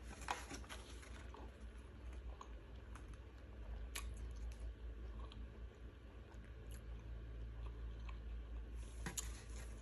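Faint chewing of a bite of chicken taco (a fried chicken strip with lettuce in a soft tortilla), with scattered small mouth clicks, over a low steady hum.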